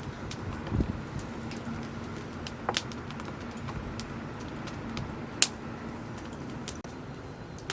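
Cooking over a wood campfire: a steady hiss with a soft thump about a second in and a few sharp cracks and pops, the loudest about two-thirds of the way through.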